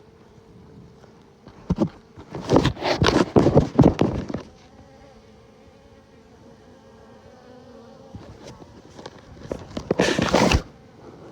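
Honeybees buzzing steadily around an open hive, with two spells of loud rustling and scraping close to the microphone, one about two seconds in and one near the end.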